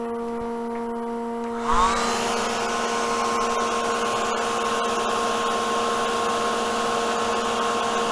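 Steady electrical hum of the running lathe, then a hair dryer switched on about two seconds in, spinning up with a brief rising whine and blowing steadily to dry the paint on the turning bowl.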